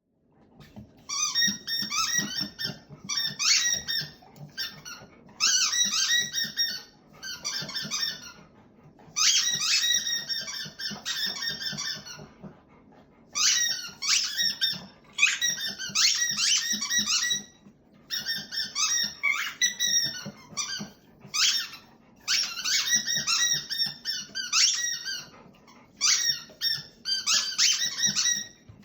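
A black Labrador chewing a squeaky toy, making it squeak over and over in quick runs of high squeals a second or two long, with short pauses between runs.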